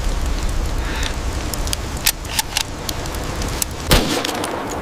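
Steady low rumble of blizzard wind with scattered sharp small clicks, and one louder knock about four seconds in.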